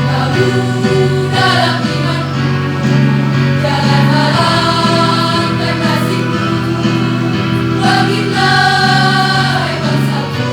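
A high-school choir singing in several parts, holding long notes that move from chord to chord.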